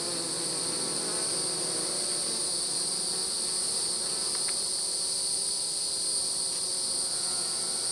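Honey bees buzzing steadily around a swarm trap, their bees clustered at the entrance. Over the buzz runs a continuous high, even insect trill.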